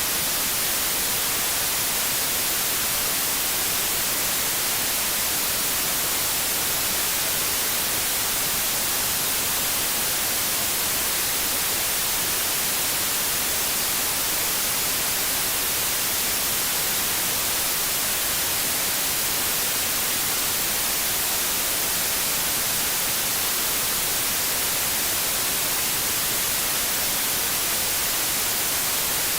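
Steady television static hiss: white noise with no change, heaviest in the high frequencies.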